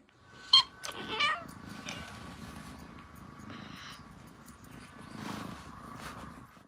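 A domestic cat crying: one sharp, loud cry about half a second in, then a longer wavering cry about a second in, followed by a softer, steady low sound.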